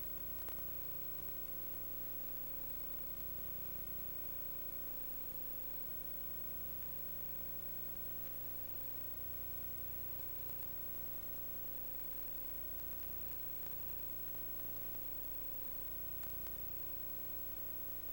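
Steady electrical hum with a constant hiss, unchanging throughout, with no other sound.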